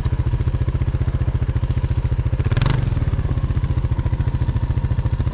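Snowmobile engine idling with a steady low pulsing, with a brief louder rush about halfway through.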